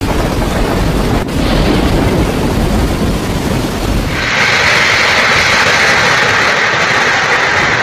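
Storm wind buffeting the microphone with a low rumble, then, after a cut about four seconds in, the steady loud hiss of heavy rain.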